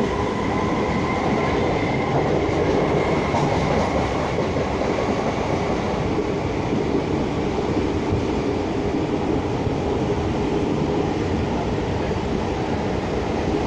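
Electric suburban local train (EMU) running along the line, heard from inside the carriage: a steady rumble and rattle of wheels on track, with a faint high whine in the first few seconds.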